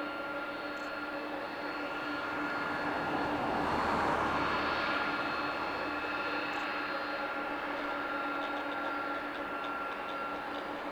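DHL Airbus A300-600 freighter's twin turbofan engines passing, a steady jet noise with a high whine that swells to a peak about four seconds in and then eases.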